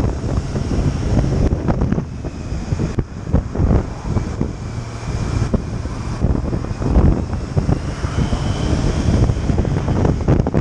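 Wind buffeting the microphone of a moving motorcycle, a loud, uneven rumble, with the motorcycle's running underneath.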